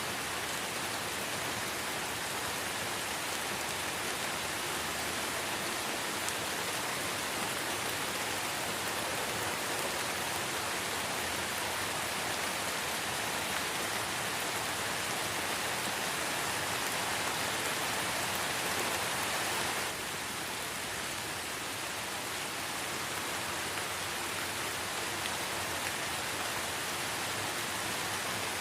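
Light rain falling in a forest: a steady, even hiss of many drops, becoming slightly quieter about twenty seconds in.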